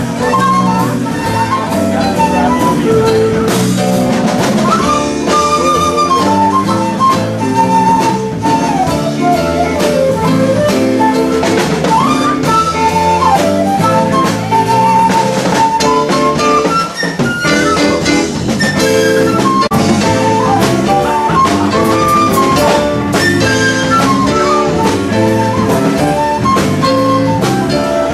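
Band playing an instrumental passage with a jazzy blues feel: a drum kit keeps a steady beat under a wandering lead melody.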